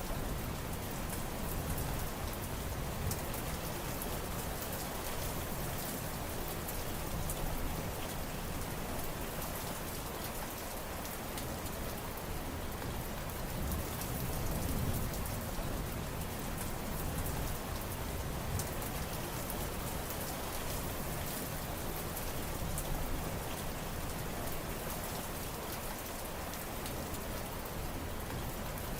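Steady rain falling, with many fine drop ticks over a low rumble that swells and eases slightly.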